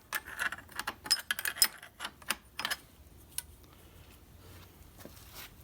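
Light metallic clicks and clinks of a Model T's steel transmission band and its clips being handled and bent into shape. They come in a quick cluster over the first three seconds, with one more click a bit later, then it goes quieter.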